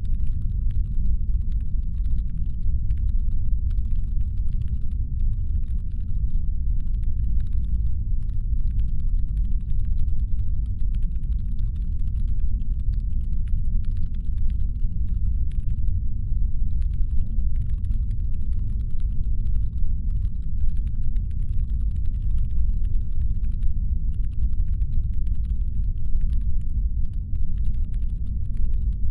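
Constant deep brown-noise rumble, sound-designed as a spaceship's engine hum, steady and even throughout. Faint, irregular clicking sits far above it.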